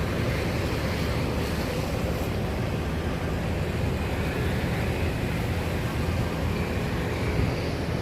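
Steady low rumble of wind buffeting the microphone, with idling bus engines beneath it.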